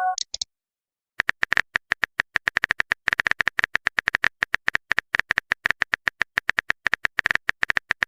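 Phone keyboard typing sounds: a rapid run of short key-tap clicks, several a second, starting about a second in. A brief electronic chime fades out at the very start.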